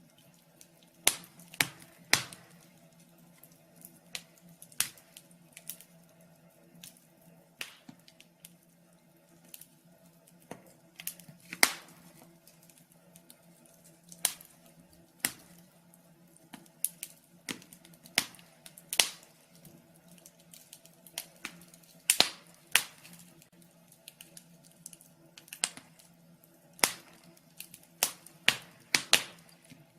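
Fire crackling in a fireplace: irregular sharp pops and snaps, a few seconds apart and sometimes in quick clusters, over a faint steady low hum.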